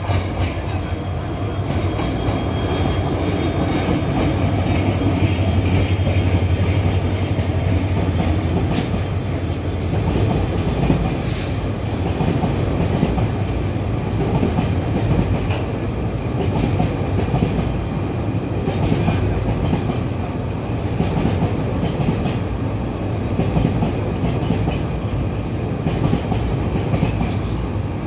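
Bangladesh Railways train running along the track, a steady loud rumble with its wheels clattering over the rails, and two sharp clicks about nine and eleven seconds in.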